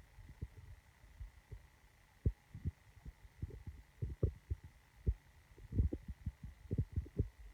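Gusty wind buffeting a phone microphone, heard as irregular low thumps several times a second, over a faint steady high electronic tone.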